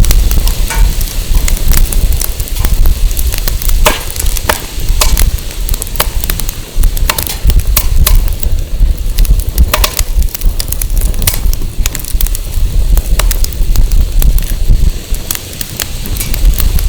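Wood fire burning, with irregular sharp crackles and pops from the burning firewood over a steady low rumble of wind on the microphone.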